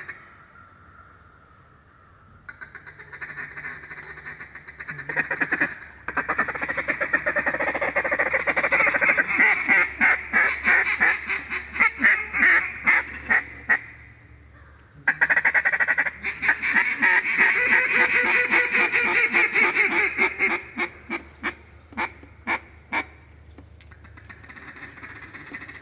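Mallard quacking and fast chattering calls in two long runs, then a scatter of single quacks near the end.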